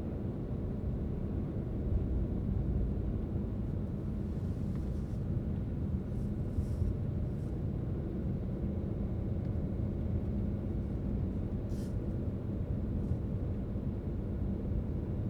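A car driving at a steady speed: a constant low rumble of tyres and engine. A few faint, brief ticks are heard about a third of the way in and again near the end.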